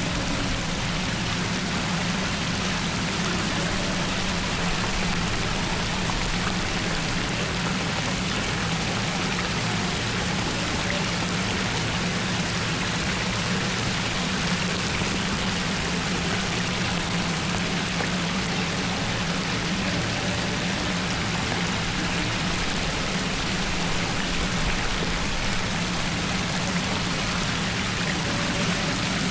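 Steady rush of flowing floodwater, with a low steady hum underneath.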